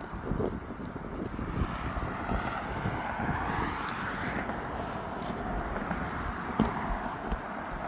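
An aircraft flying over: a broad, steady drone that rises in pitch toward the middle and then falls away, with scattered light clicks and scrapes on top.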